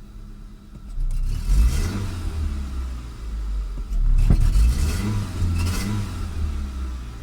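Renault Laguna II's 1.6-litre K4M four-cylinder petrol engine running at low revs. Its rumble grows louder about a second in, then swells and falls in uneven surges, with a sharp tick midway. This is the rough running at low engine speed that the owner is asking about.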